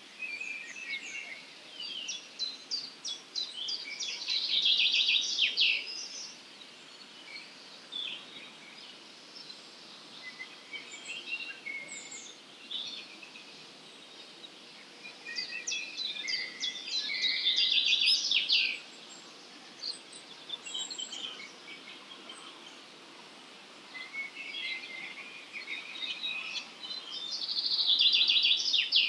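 A songbird singing the same short song three times, about every eleven seconds, each phrase ending in a fast, dense trill. Fainter chirps from other birds fill the gaps over a steady low hiss of morning ambience.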